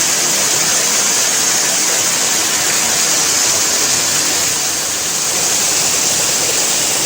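Indoor ornamental waterfall splashing steadily: a constant, loud, hissing rush of falling water.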